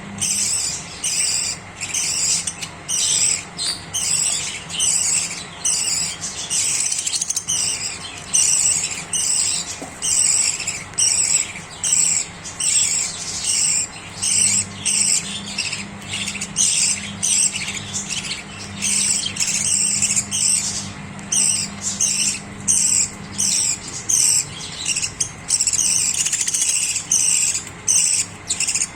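Budgerigars chattering and chirping continuously in quick, high, overlapping bursts.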